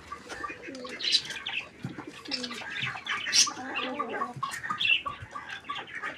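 A broody hen flapping its wings and giving short squawking calls as it is lifted off a nest of fake eggs, with other poultry calling around it.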